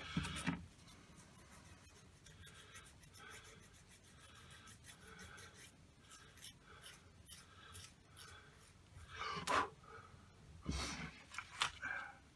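Faint scratching and rubbing of a small balsa piece being sanded with a nail file and handled against a foam model aircraft, with a few soft knocks about nine seconds in and again near the end.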